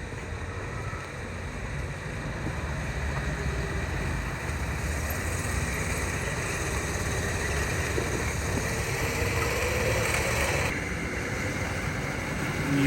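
Steady motor-vehicle traffic rumble with a hiss above it. The hiss drops away abruptly about eleven seconds in.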